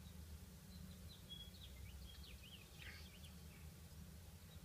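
Faint birdsong: a quick run of short chirps in the first half, over a steady low hum.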